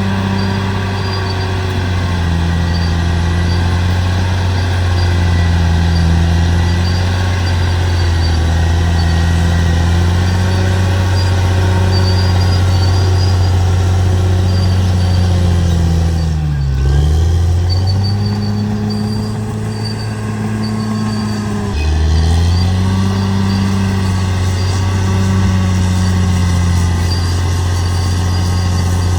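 Bulldozer's diesel engine running under varying load. Its pitch wavers, sags sharply and recovers about halfway through, and drops suddenly again a few seconds later before climbing back.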